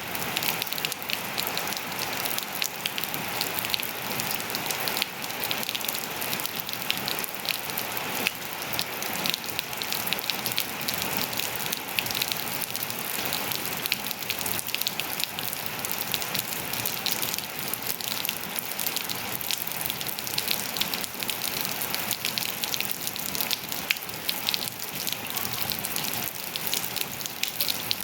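Steady rain falling on hard surfaces, a continuous hiss dense with the crackle of individual drops.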